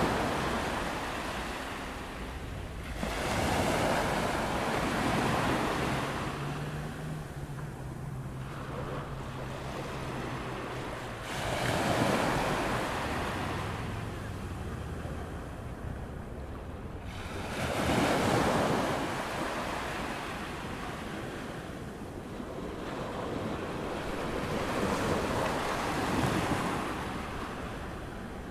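Ocean waves breaking on a sandy beach as the tide comes in, each wave swelling and washing out, about every six seconds. Wind rushes on the microphone, and a faint low hum is heard in the middle.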